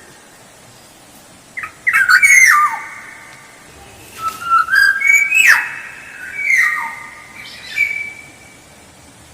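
Black-naped oriole (kepodang emas) singing: loud, fluid whistled phrases with sharp downward-sweeping notes. The song starts about a second and a half in and repeats in several bursts.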